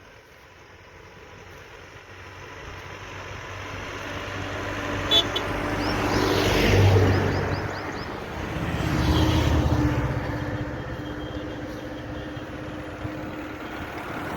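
A motor vehicle passing on the road: the engine and tyre noise builds over several seconds to a peak about halfway through, then swells a second time soon after and eases off. A few short bird chirps sound high above it.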